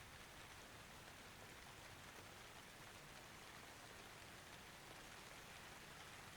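Faint, steady rain falling: an even hiss with no thunder.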